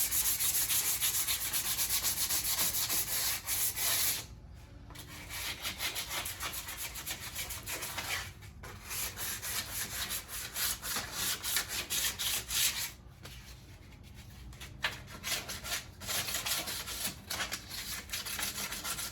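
Sandpaper rubbed back and forth by hand on the steel door jamb of a 1967 Ford Mustang, in quick strokes with short pauses, scuffing off the old clear coat so that primer will stick.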